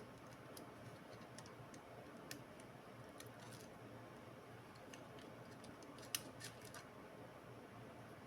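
Faint, scattered light clicks and ticks over a low steady hum, the sharpest a little after six seconds in, followed by a few smaller ones.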